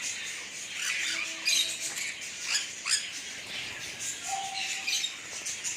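Many caged exotic birds in an aviary calling at once: a dense mix of short, high chirps and calls, with a couple of brief steady whistled notes in the middle.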